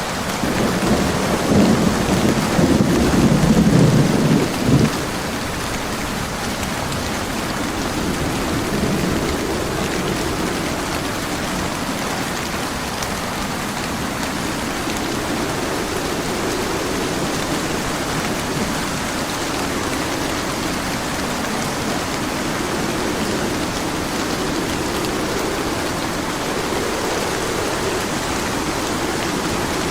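Steady heavy rain with a low rumble of thunder in the first few seconds that cuts off abruptly about five seconds in.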